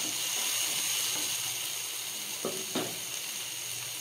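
Diced green capsicum sizzling steadily in oil in a nonstick pan over a low flame, stirred with a wooden spatula. Two short knocks come about two and a half seconds in.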